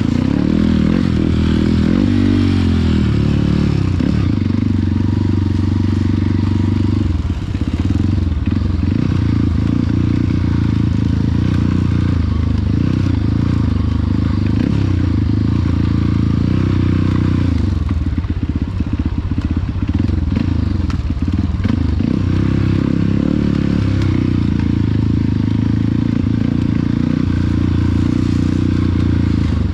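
Trail motorcycle engines running steadily at low revs, their pitch wavering up and down.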